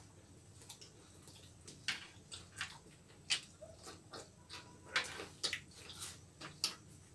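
Close eating sounds: irregular wet mouth clicks and lip smacks of people chewing roti and chilli chicken, a few of them louder than the rest.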